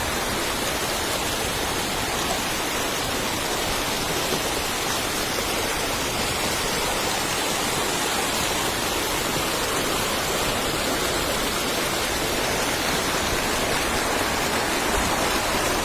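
Waterfall: falling water rushing as a steady, even roar.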